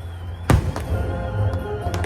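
A single sharp firework bang about half a second in, over a steady low rumble, with background music whose notes come in near the end.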